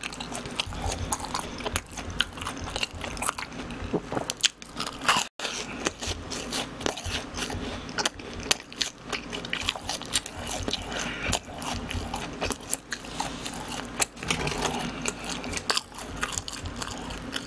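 A person chewing and biting fried cheese balls close to the microphone: a dense, irregular run of small crunching clicks.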